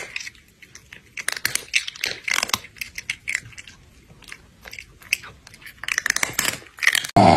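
Crunchy chewing: quick, irregular bites and crunches of food, thinning out in the middle and picking up again. A louder, lower sound begins just at the very end.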